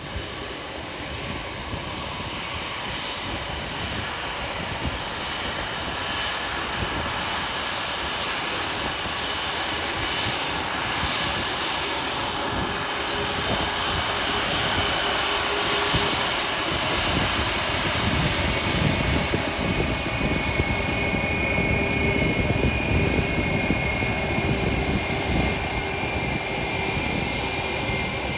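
Airliner engines, a steady rushing noise that grows louder as the plane approaches to land, with a high steady whine joining after about twenty seconds.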